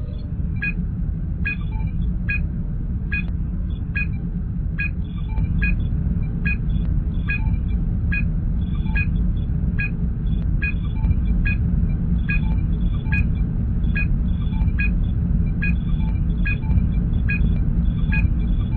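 Star Trek starship interior ambience: a deep, steady engine hum with a short electronic scanning blip repeating evenly, a little faster than once a second.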